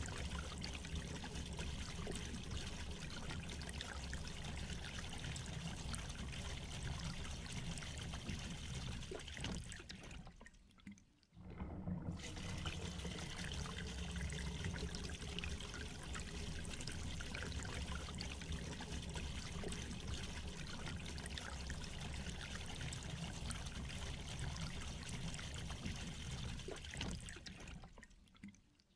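Steady rain falling. It fades out briefly about ten seconds in, comes back, and fades away again near the end.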